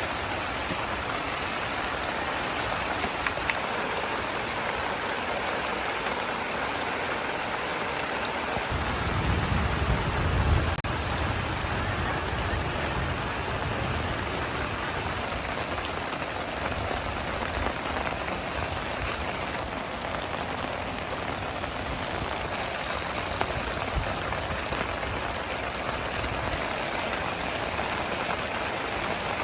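Heavy rain falling steadily. About nine seconds in, a low rumble swells for a few seconds and fades.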